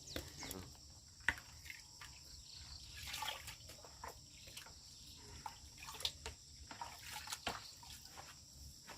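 Steady high-pitched drone of insects, with scattered light clicks and knocks throughout, the sharpest about a second in.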